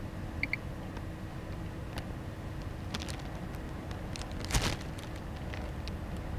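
A handheld radiation meter gives a quick double beep. A few sharp clicks follow, then one louder knock, over a steady low background hum.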